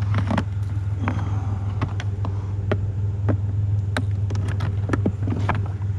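A truck engine idling with a steady low hum, while scattered sharp clicks and knocks come from scrap being handled close by.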